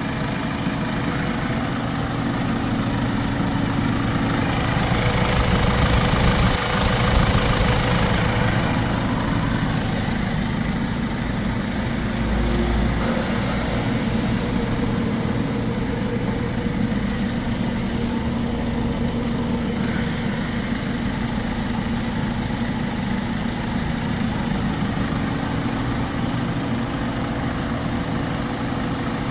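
Hyundai Santa Fe engine idling steadily, running with engine flush cleaner in the oil before the oil change.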